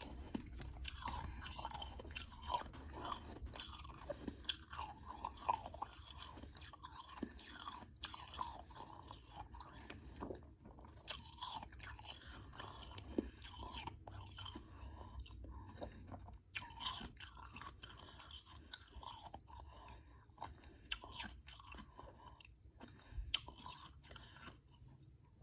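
Close-up chewing of frozen powdery freezer ice with some chunks: a continuous run of small crisp crunches and crackles, thick at first and thinning out in the last third.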